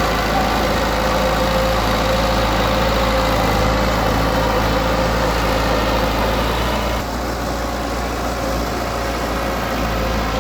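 Heavy-machine diesel engine running steadily at low revs, with a constant hum and low rumble. It drops slightly in level from about seven seconds in.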